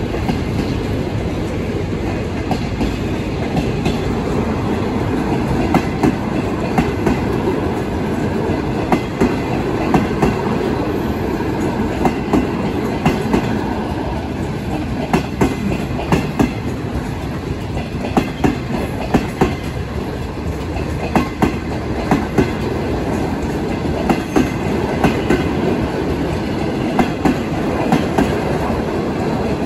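A train rolling past on steel rails: a steady rumble with the clickety-clack of wheelsets crossing rail joints, the clicks coming in quick pairs and threes at a regular pace.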